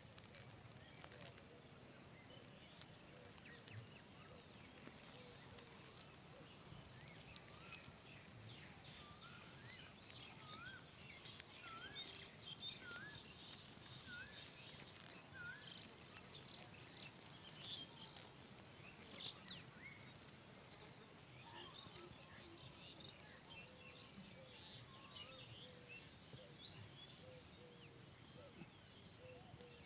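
Faint outdoor ambience with birds calling: a run of about seven short rising notes, roughly one a second, partway through, along with scattered higher chirps.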